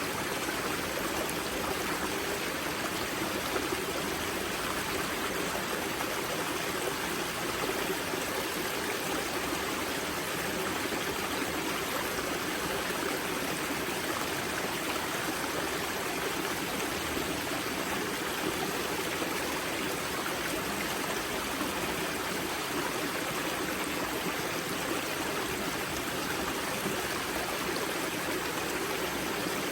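Water of the river Grza's spring source rushing and splashing over rocks in a steady, unbroken stream sound.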